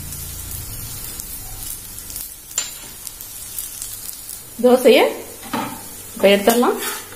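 Oil sizzling under a dosa frying on a hot dosa tawa, just after oil has been drizzled over it from a ladle. A person's voice comes in briefly twice in the second half.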